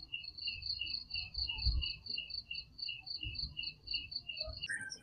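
Night insects chirping in a steady rhythm, about three short pulses a second. Near the end, a different, higher and faster chirping abruptly takes over. Faint low rumbles sit underneath.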